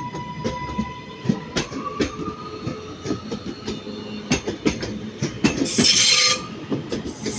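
A train moving through the station: a run of irregular clicks and clacks from the wheels on the track over a thin steady whine, with a loud burst of hiss about six seconds in.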